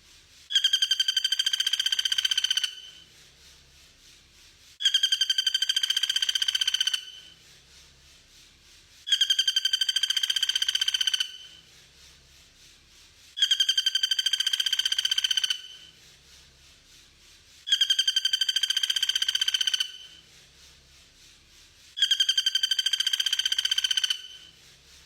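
A bird's rapid, buzzy trill on one steady pitch, about two seconds long, repeated six times at even intervals of about four seconds in identical copies: a looped recording used to train songbirds.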